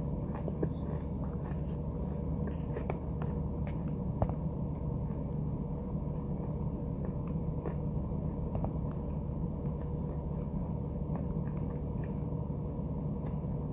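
Closed-mouth chewing of a mouthful of white powder paste: scattered soft, sticky mouth clicks, one sharper click about four seconds in, over a steady low rumble.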